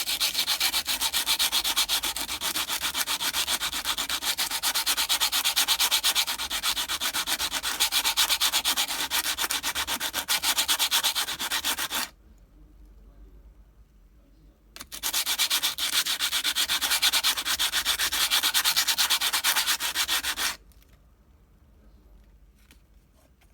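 Mountain bike disc brake pad rubbed in quick back-and-forth strokes on coarse 80-grit sandpaper, grinding off the glazed, oxidised surface layer blamed for the brake's squeal. Two spells of sanding, one of about twelve seconds and then one of about six seconds, with a short pause between.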